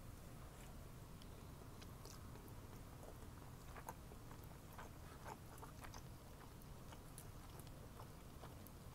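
Faint chewing of rice noodles and ground beef, with scattered small clicks over a low steady hum.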